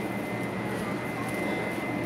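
Steady hum and rumble of a Chu-Kuang express train at the station platform, with a thin, steady high-pitched tone over it.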